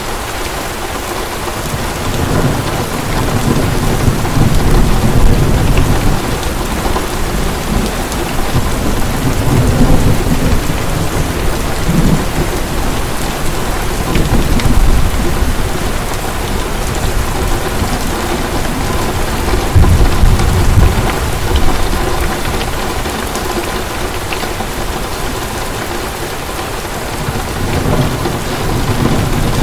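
Heavy rain falling steadily, with deep rumbles of thunder swelling up several times, loudest about 20 seconds in.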